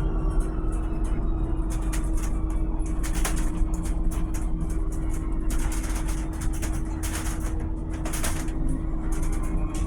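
Volvo BZL two-motor electric bus running, with a low rumble, one steady whining tone, and frequent rattles and clicks.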